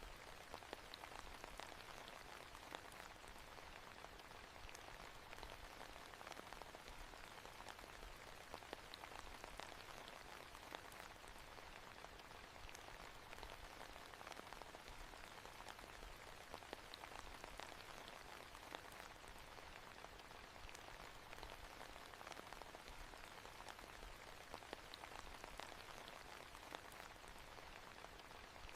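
Soft, steady rainfall, a faint even patter of drops with many tiny scattered ticks.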